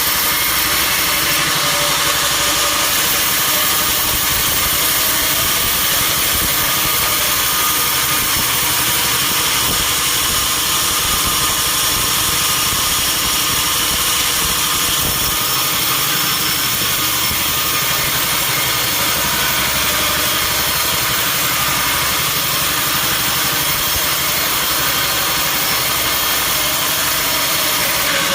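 Sawmill engine running steadily, a loud, even machine noise weighted toward the high end, with no pauses.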